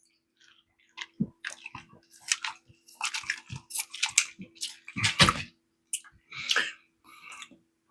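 A person chewing food close to the microphone, with irregular wet smacking and clicking mouth sounds that start about a second in.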